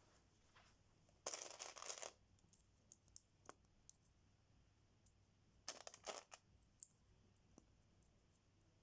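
Faint rattling and clicking of small hard plastic Lego pieces being handled: two short rattling bursts, about a second in and again near six seconds, with scattered single clicks between them.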